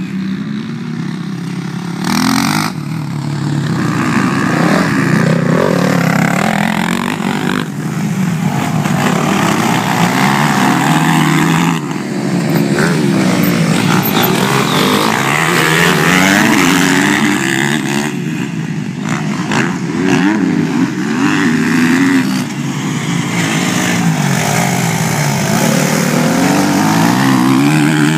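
Motocross dirt bikes' engines revving up and down as they ride, the pitch rising and falling over and over, with more than one bike heard at once.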